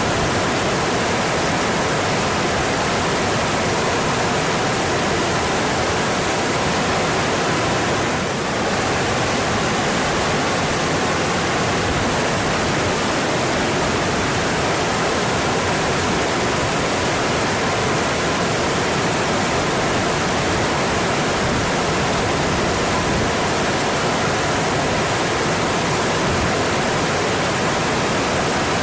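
Mountain stream running steadily, water rushing over rocks in an even, unbroken wash, with a brief slight dip in level about eight seconds in.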